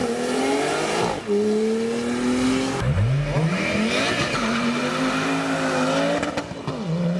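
Sports car engine accelerating hard, its revs climbing and then dropping at gear changes.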